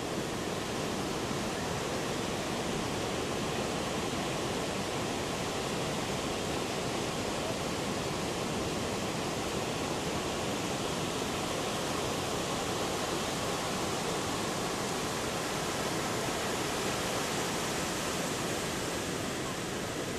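Heavy ocean surf from a big pre-typhoon swell, a steady, even rushing noise.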